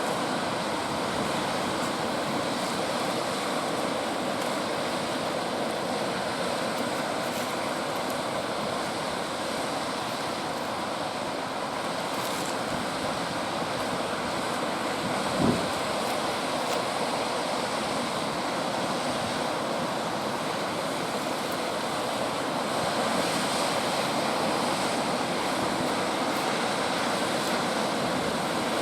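Big ocean surf breaking and rushing onto the beach in a steady roar of waves, with a brief thump about halfway through.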